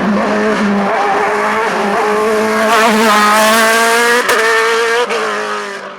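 Hill-climb race car engine running hard at high revs, its pitch climbing through the middle, with a sharp crack just after four seconds, then fading away near the end as the car goes on up the course.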